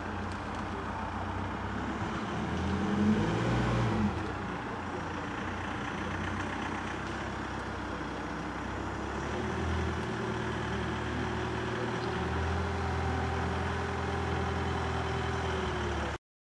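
Steady low engine drone with a pitched hum that rises and falls about three seconds in and holds steady later on. It cuts off suddenly near the end.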